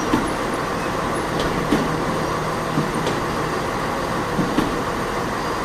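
A large vehicle running steadily, with light knocks every second or so.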